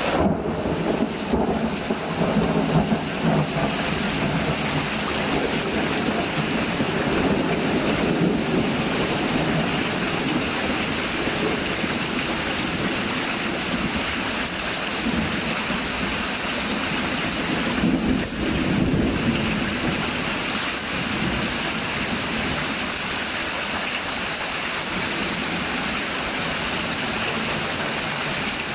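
Heavy rain pouring down steadily in a thunderstorm, with low thunder rumbles swelling near the start and again about two-thirds of the way through.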